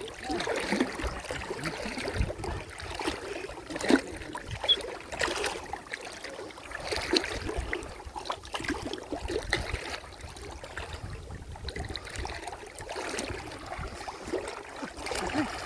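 Muddy pond water sloshing and splashing irregularly, with a few sharper splashes about four and five seconds in.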